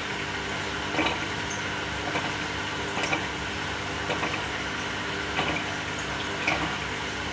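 Samsung 6.5 kg top-loading washing machine running with water moving, over a steady hum and soft knocks roughly once a second.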